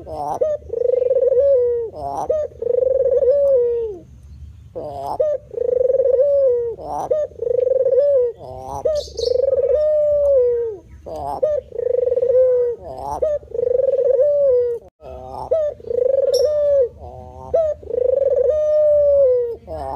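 White spotted dove (tekukur putih) cooing over and over, each call a short rising note then a held coo, about one every second and a half, with a brief pause about four seconds in.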